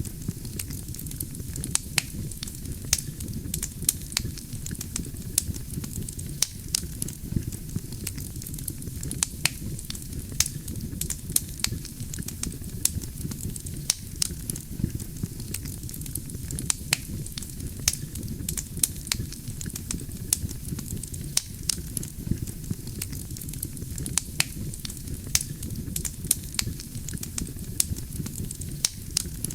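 Wood fire burning: constant crackling of the logs with frequent sharp pops, over a steady low rush of the flames.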